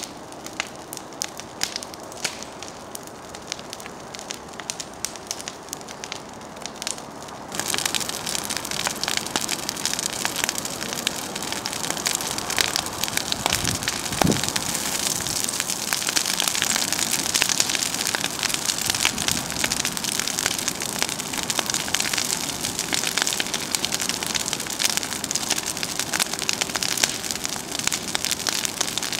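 Large campfire of dry brush and branches burning, with dense crackling and popping. About seven or eight seconds in it abruptly gets louder, into a fierce crackling hiss.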